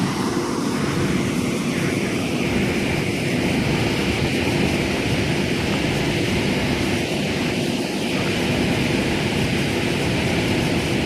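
Steady drone with a low hum from an 8-car C set double-deck electric suburban train standing at the platform, typical of its on-board auxiliary equipment and air-conditioning running.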